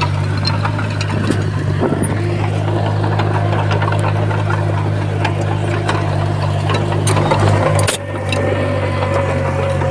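Komatsu bulldozer's diesel engine running steadily under load, with scattered light clanks and one sharp knock about eight seconds in.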